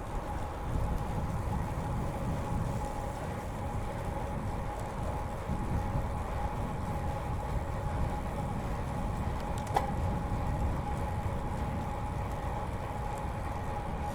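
Road bike riding along a paved path: wind rumble on the chest-mounted mic and tyre rolling noise, with a steady hum running under it and a single sharp click about ten seconds in.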